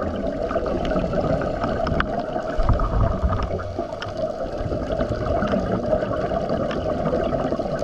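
Underwater sound on a scuba dive: gurgling water and a diver's bubbles, with a steady rushing noise, a low swell of rumbling about three seconds in, and scattered faint clicks.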